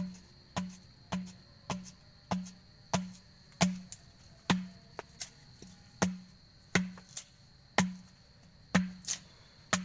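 Knife chopping on a cutting board, sharp even strokes a little under two a second. A steady high insect drone runs under it.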